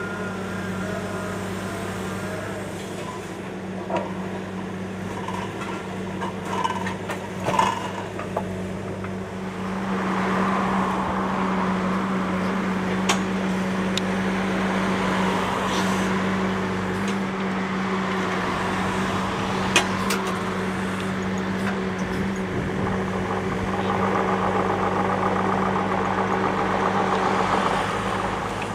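Takeuchi TB290 compact excavator's diesel engine running steadily, working harder and louder from about ten seconds in, with a few sharp knocks along the way.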